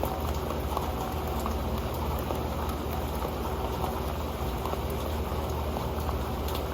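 Steady rain falling on an old metal pan, with many small drop hits ticking on it over the constant rush of the rain.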